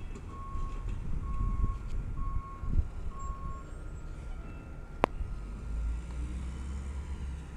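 Garbage truck's engine running with its reversing alarm beeping four times, about once a second, then falling silent as the truck stops backing. A single sharp click comes about five seconds in.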